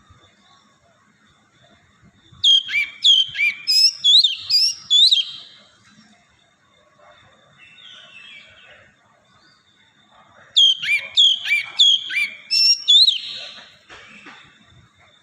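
Oriental magpie-robin singing: two bursts of loud, rapid whistled phrases made of sweeping notes, each lasting about three seconds, with a pause of several seconds between them. A faint steady high thin tone runs underneath.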